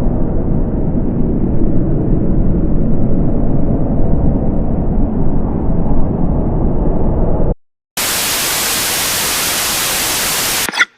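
Sound-design noise: a loud, dense low rumble that cuts off abruptly about seven and a half seconds in, then, after a moment of silence, a burst of flat, even static hiss for about three seconds that cuts off just as suddenly.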